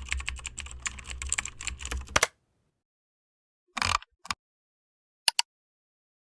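Computer keyboard typing: a fast run of key clicks for about two seconds, then silence broken by a short rustle-like burst and a few single clicks.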